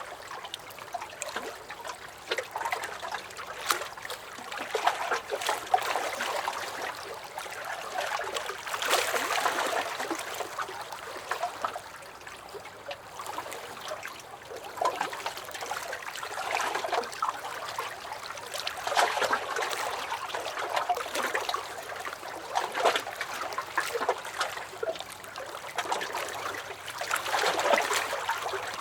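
Small lake waves lapping and splashing against a dock, a steady wash of water that swells and eases every few seconds with many small sharp splashes.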